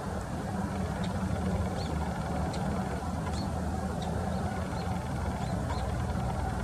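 A steady low engine or traffic rumble, with a small bird's short, high chirps repeating about once or twice a second over it.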